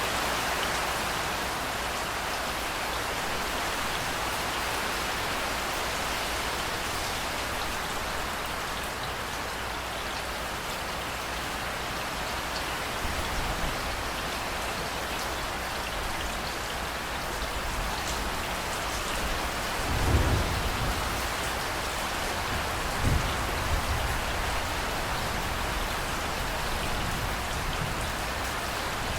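Steady heavy rain falling on hard surfaces. A low rumble of thunder swells about two-thirds of the way through, and a shorter one follows a few seconds later.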